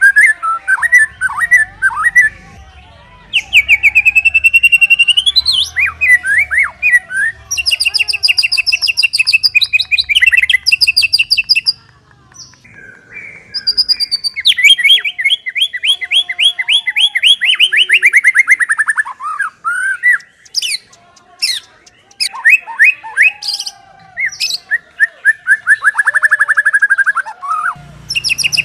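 White-rumped shama (murai batu) singing a loud, varied song of whistled phrases and fast trills of repeated notes, including a long falling trill about halfway through, with brief pauses between phrases.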